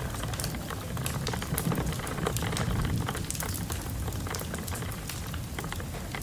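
Fireplace-and-storm ambience: irregular crackles and sharp pops of burning wood over a steady low rumble of wind, which swells a little a couple of seconds in.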